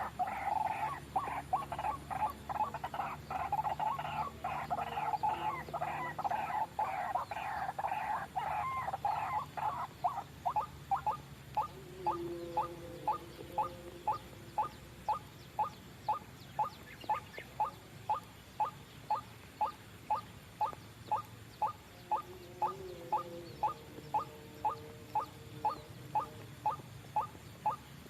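White-breasted waterhen calling: about ten seconds of dense, overlapping calls, then a long, even series of short single notes, about two a second.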